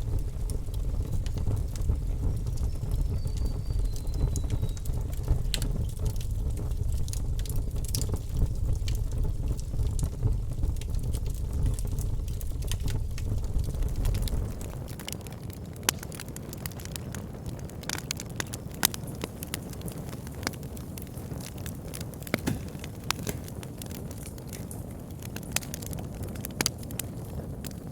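Burning wood fire crackling, with frequent sharp pops and snaps. Under it is a low rumble that drops away suddenly about halfway through, leaving a softer steady hiss beneath the crackle.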